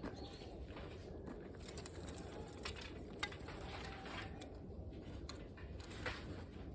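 Wood campfire crackling: scattered sharp pops over a low, steady rumble.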